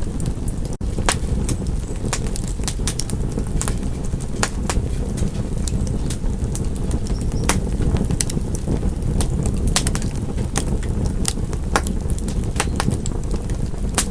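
Wood fire crackling in a fireplace: a steady low rumble of flames with irregular sharp pops and snaps. There is a split-second dropout about a second in.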